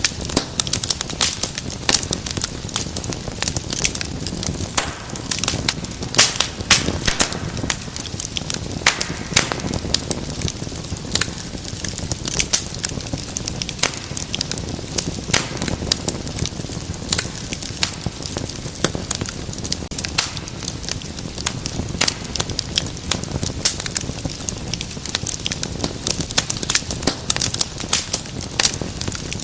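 Wood fire burning in a fireplace, crackling and popping: many sharp snaps scattered irregularly over a steady low rush of flame.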